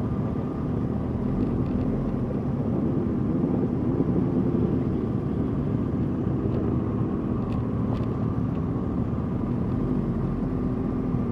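Suzuki GSX-R 1000's inline-four engine running steadily while the motorcycle is ridden.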